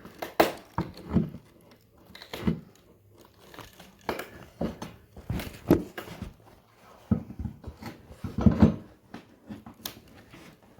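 Cut sections of floorboard being pried loose and lifted out: an irregular string of cracks, scrapes and knocks.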